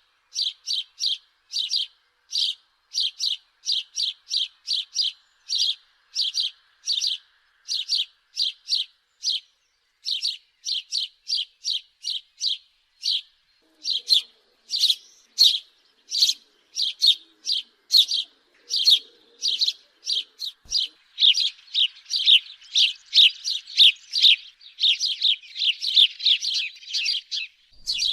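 House sparrow chirping: a long run of short, repeated chirps, about three a second, broken by a couple of brief pauses and growing denser and louder near the end.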